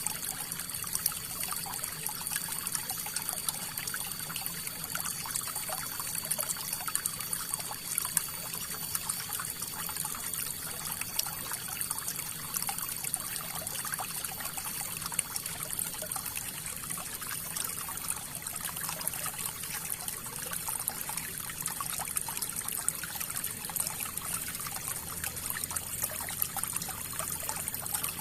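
River water flowing over stones, a steady trickling and splashing with many small bright splashes.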